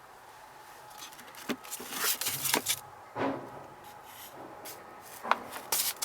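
Papers being handled in a truck cab: scattered rustles and light knocks that start about a second and a half in and come and go irregularly.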